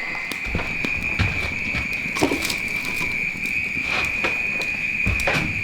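Steady, high insect drone, with scattered clicks and knocks and a few dull thumps over it.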